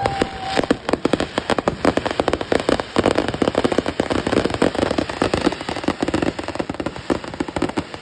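Fireworks going off in a dense, rapid run of bangs and crackles, with a brief whistle at the start.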